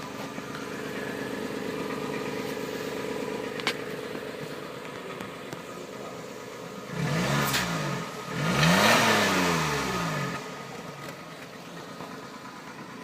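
Suzuki Wagon R Stingray X's 660 cc three-cylinder engine idling steadily, then revved twice about seven and eight and a half seconds in, the pitch rising and falling each time, the second rev longer and louder, before settling back to idle.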